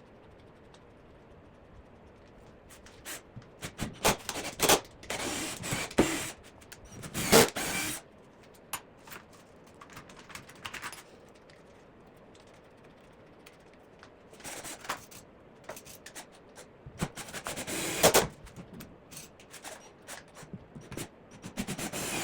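Short runs of a power drill driving screws, mixed with clattering, knocking and scraping of lumber and metal brackets being handled. It comes in two busy spells separated by a lull of several seconds.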